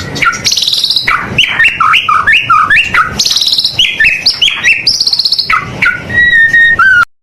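White-rumped shama singing loudly in full song: a rich, varied run of rising and falling whistles, fast rattling trills and rapid repeated notes, ending on a held whistle. The sound cuts out abruptly for a moment near the end.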